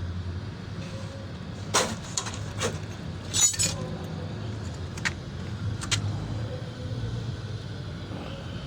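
Metal tools and parts clinking and clanking during the dismantling of a truck clutch booster and relay valve: a handful of sharp clinks, loudest in a quick cluster about three and a half seconds in, over a steady low hum.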